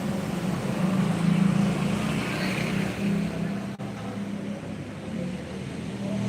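An engine running steadily with a low hum. The sound cuts out briefly about two thirds of the way through.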